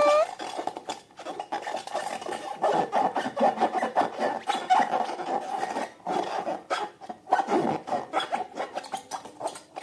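Slime being worked by hand: an irregular rubbing with many small sticky clicks and crackles.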